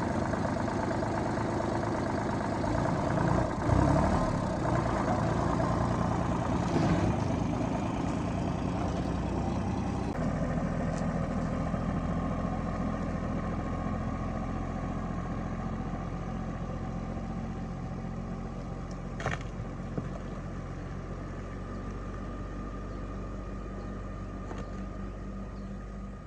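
Car engine running, with a couple of brief swells in the first several seconds, then settling into a steady idle; a short click about two-thirds of the way through.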